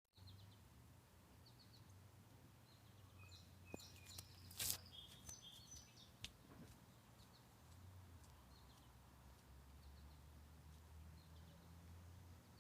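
Quiet outdoor ambience: faint short bird chirps now and then over a low steady hum, with a brief flurry of clicks and one sharp knock a little before the five-second mark.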